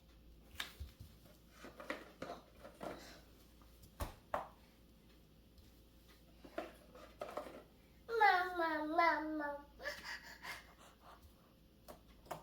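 Scattered light clicks and taps, fitting magnets being stuck onto a fridge door. About eight seconds in, a 20-month-old toddler's loud wavering vocalisation slides down in pitch for about a second and a half.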